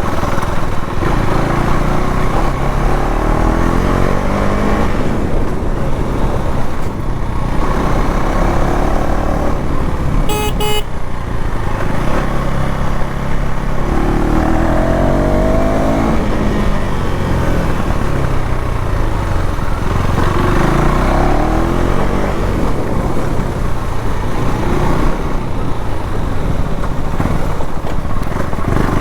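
KTM Duke 390 Gen 3's 399 cc single-cylinder engine on its stock exhaust, riding under way: the engine note climbs and drops several times as the bike accelerates and backs off. A vehicle horn gives a short double beep about ten seconds in.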